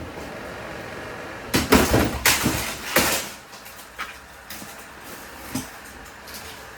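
Lasko box fan toppling over and clattering onto the floor, a quick run of loud knocks and cracks about a second and a half in, followed by a couple of lighter knocks as pieces settle. The fan is already broken apart and is being knocked down to wreck it.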